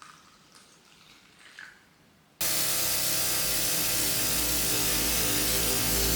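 A few faint handling clicks, then about two and a half seconds in a pressure washer starts abruptly: a loud, steady hissing water spray with a steady motor hum under it.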